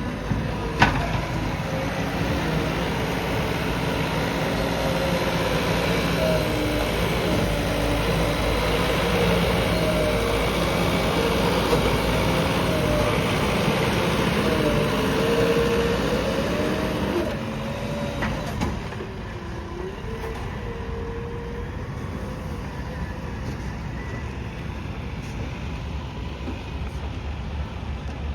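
JCB backhoe loader's diesel engine running during leveling work, with a pitch that rises and falls as it works. A sharp knock sounds near the start, and the machine gets quieter about two-thirds of the way through.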